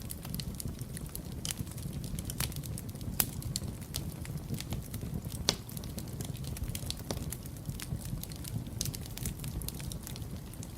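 Wood fire burning, a steady low rumble of flames with irregular sharp crackles and pops, two louder pops about three and five and a half seconds in.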